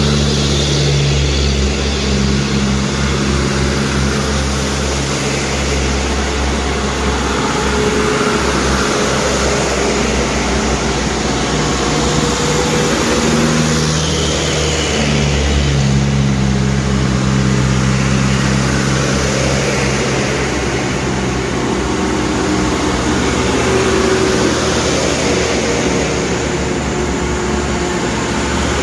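Medium trucks' diesel engines running under load, their low engine note rising and falling in pitch every few seconds as they rev and ease off.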